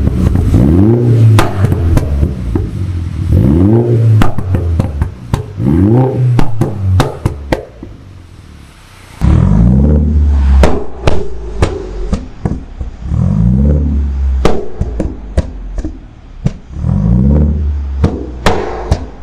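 MINI Cooper S's 2.0-litre turbocharged B48 four-cylinder blipped through a full aftermarket exhaust system: six quick revs that rise and fall, with many sharp cracks and pops between them.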